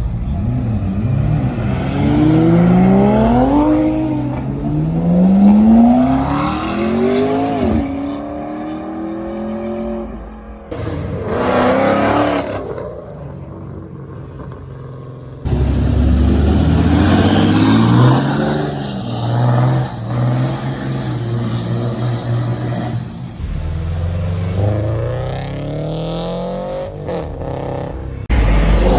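Cars accelerating hard in a string of short clips, each engine note climbing in pitch and dropping back at a gear change before climbing again.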